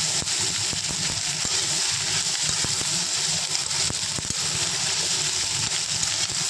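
Chopped onions frying in hot oil in a pan: a steady sizzle with scattered small crackles and pops.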